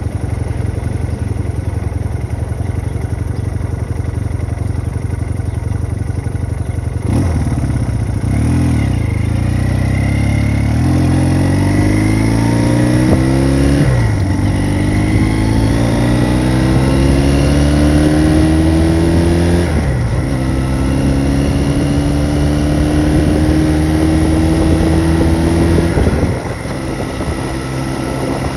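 1974 Honda CB200's 198 cc parallel-twin engine running steadily, then about seven seconds in its revs climb as the bike accelerates. The pitch drops back at two upshifts and climbs again after each, then falls as the throttle is rolled off near the end.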